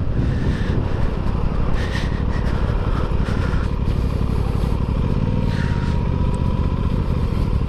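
2021 Aprilia Tuono 660's parallel-twin engine running steadily.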